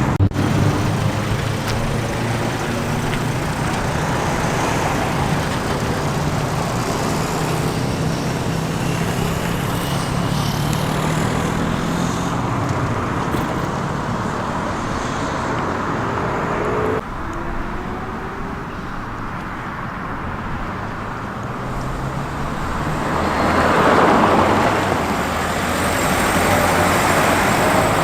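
Motor vehicle engines and traffic running steadily with a low hum. About two-thirds through the sound changes abruptly and drops, then a vehicle passes close by, swelling and fading.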